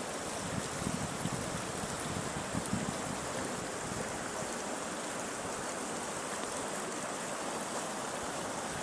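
River water flowing and babbling steadily; the river is running high after rising.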